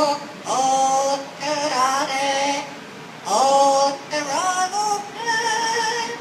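Yellow-naped Amazon parrot singing the words of a song in a mimicked human voice: held notes with slides in pitch, in short phrases.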